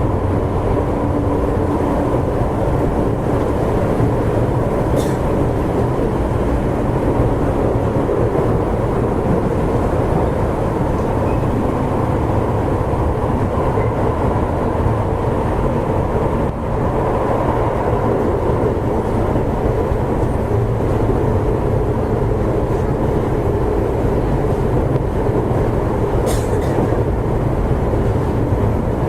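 Toei Shinjuku Line subway car 10-287 running at speed through a tunnel: a steady rumble of wheels on rail and traction motors with a faint steady tone, a brief drop in level about halfway through, and two faint clicks.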